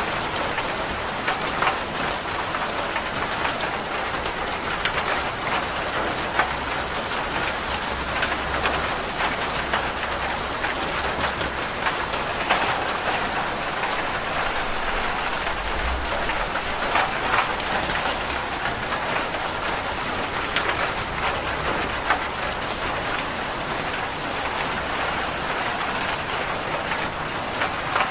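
Steady rain pattering on a roof, with many individual drops ticking. A low rumble of distant thunder swells about halfway through.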